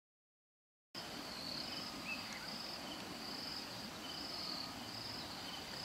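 Bush ambience starting about a second in: a high insect trill repeating in pulses of roughly half a second, with a faint bird call about two seconds in.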